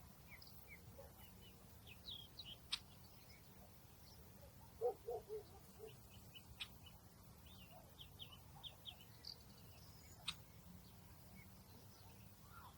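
Quiet outdoor nature ambience with scattered faint, high bird chirps. It also holds a few sharp clicks and a brief burst of lower notes about five seconds in, the loudest moment.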